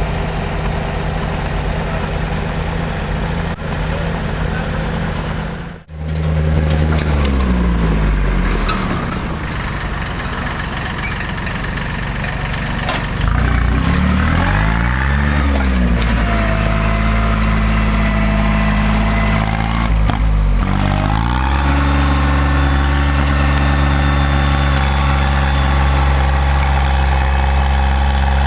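Diesel engine of a Timberjack forwarder running, with a sudden break about six seconds in. Its speed then falls and rises several times before it settles at a steady, higher speed for the last third.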